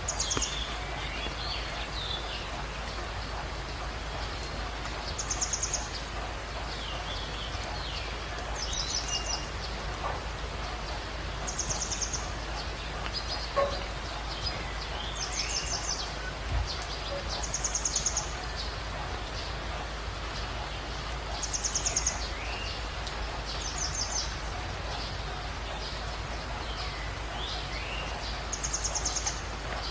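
Birds singing: a short, high, rapid trill repeated every three to four seconds, with softer falling chirps between, over a steady hiss.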